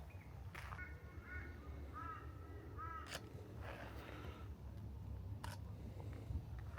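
A bird calling: a quick series of short pitched calls starting about a second in, ending with two louder calls around two and three seconds in. A few sharp clicks fall in between, over a steady low rumble.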